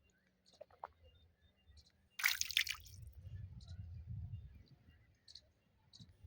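A sudden splash of water about two seconds in, followed by a low rumble for a couple of seconds, with faint scattered clicks around it.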